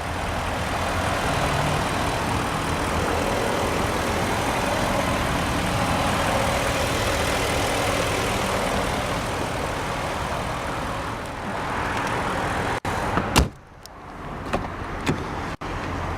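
BMW 740i's 4.4-litre V8 idling steadily with the hood open. About thirteen seconds in, a single loud thump breaks in, followed by quieter sound and a few light clicks.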